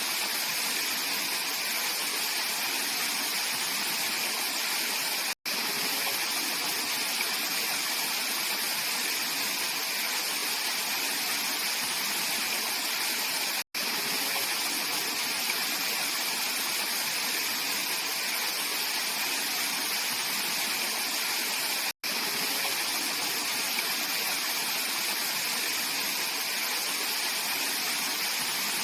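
Mountain valley stream rushing steadily over rocks, a full, even water noise. It cuts out for an instant three times, about every eight seconds.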